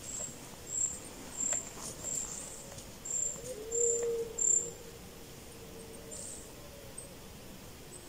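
A small bird giving a run of about seven short, very high, thin chirps at an even pace, stopping about halfway through. Under them, in the middle, a faint drawn-out lower call rises and falls over about two seconds.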